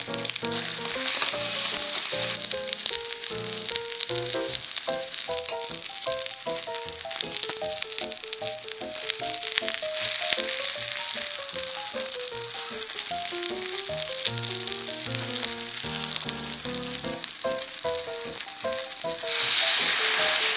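Food sizzling and crackling as it fries in hot oil in a pan, over a light background melody. The sizzle suddenly gets louder about nineteen seconds in.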